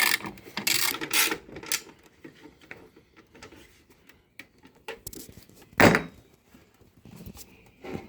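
A 7/16 socket ratchet being worked in a few short bursts of clicking strokes in the first two seconds, driving lag bolts. Then quiet handling, with a single sharp knock about six seconds in.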